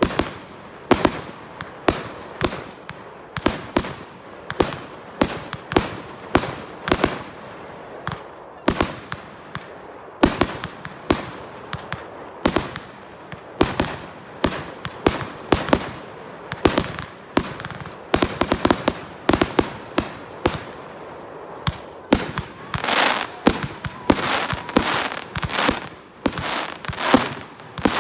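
Consumer fireworks going off in a display: a steady run of sharp bangs, roughly two a second, with a denser, louder flurry of bangs and crackle near the end.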